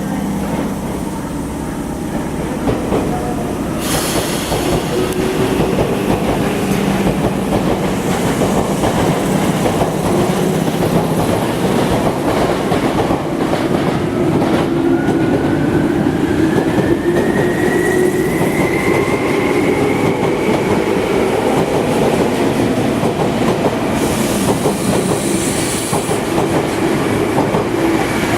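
Tokyu 8500 series electric train running, wheels clacking over rail joints under a steady rumble. A motor whine rises in pitch through the middle and levels off.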